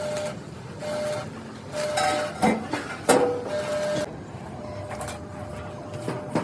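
A small motor whirring in short on-and-off spurts, with a few sharp knocks.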